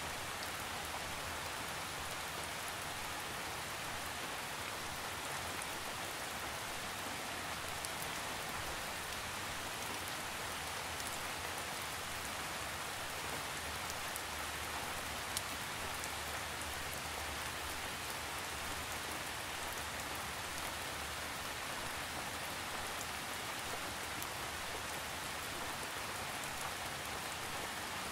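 Gentle rain falling steadily: an even hiss with scattered small drop ticks, and one slightly sharper drop about halfway through.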